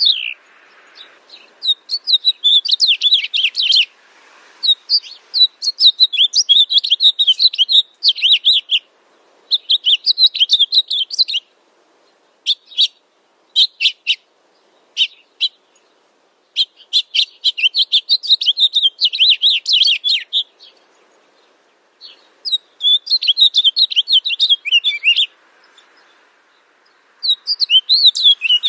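A songbird singing fast, high chirping phrases a few seconds long, separated by short pauses, with a run of single separate chirps about halfway through.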